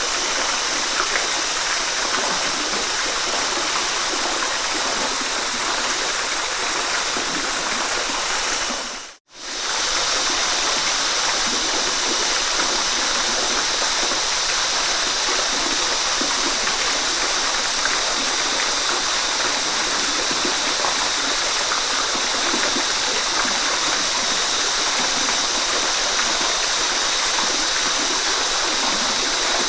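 Waterfall rushing in a steady, even wash of falling water. About nine seconds in it briefly fades out to silence and comes straight back at the same level.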